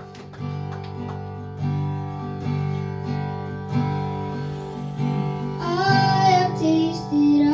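Worship song music: acoustic guitar strumming sustained chords in a steady rhythm, with a singing voice coming in near the end.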